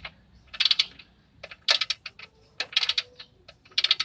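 Socket ratchet wrench clicking in four short runs, about one a second, as the handle is swung back between turns while loosening a tight 17 mm oil drain plug.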